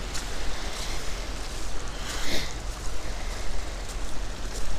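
Steady rush of a flowing creek mixed with low wind rumble on the microphone, with a brief brighter hiss about two seconds in.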